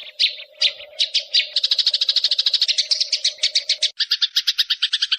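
Recorded songbird song: a few separate sharp chirps, then a fast trill of about ten notes a second over a steady low tone. Just before four seconds in, it switches abruptly to a different, lower, buzzier trill and the low tone stops.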